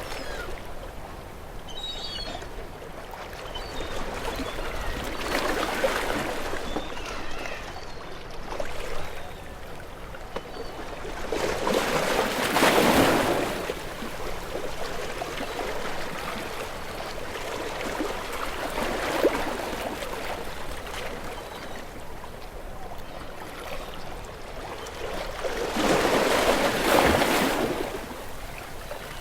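Ocean waves washing ashore: a steady rush of water with separate waves swelling and fading, the two loudest about halfway through and near the end.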